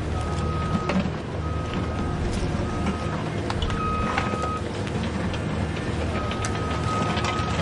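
Remote-control dump truck with a reversing beeper sounding in a run of high beeps of uneven length over a steady engine-like hum, with scattered clicks and knocks.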